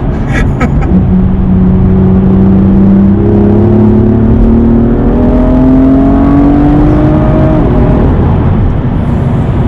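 BMW M2's turbocharged straight-six accelerating, heard from inside the cabin: its note climbs steadily for about six seconds, then falls away as the throttle is lifted.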